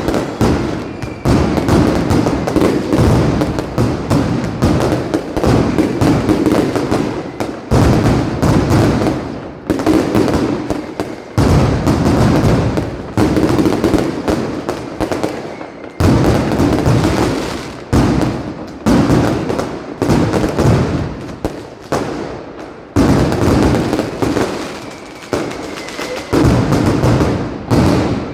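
Mascletà firecrackers going off in a dense, continuous barrage of rapid bangs. The barrage swells into louder waves every two to four seconds.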